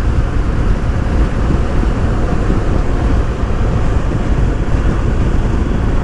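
Steady wind rush and buffeting on the microphone of a motorcycle riding at road speed, with the BMW R1250GS Adventure's engine and tyre noise underneath.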